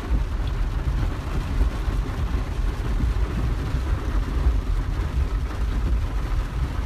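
A car's engine and tyres making a steady low rumble, heard from inside the cabin while driving on a farm field.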